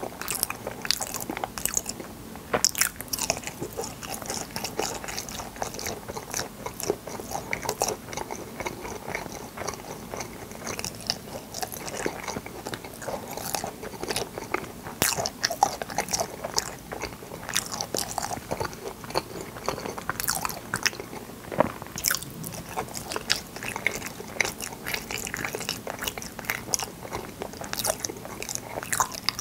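Close-miked chewing and biting of fruit yanggaeng, a firm Korean jelly dessert: a continuous run of small wet clicks and bites without pause.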